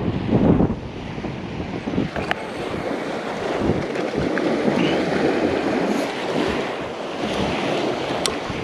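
Wind buffeting the microphone over the steady wash of surf on a beach, with the gusts strongest in the first second.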